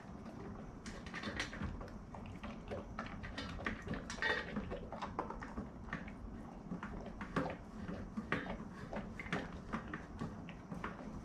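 Golden retriever eating a meal of dry kibble, with quick, irregular crunches and clicks, several a second.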